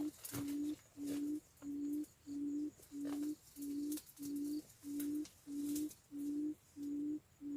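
Quail call: a low, pure hooting note repeated at an even pace, about three notes every two seconds, with faint scattered clicks.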